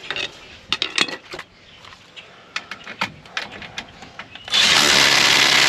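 Scattered clicks and knocks of tools and parts being handled, then a power tool runs loudly in one burst of about a second and stops abruptly near the end.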